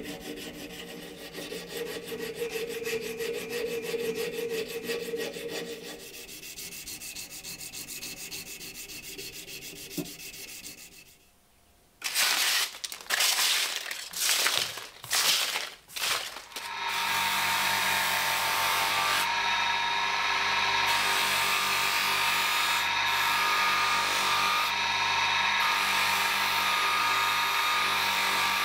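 Fast back-and-forth hand sanding or filing strokes on a knife part, stopping about ten seconds in. After a brief pause, a small power tool starts in four or five short bursts, then runs steadily with a constant whine for the rest of the time.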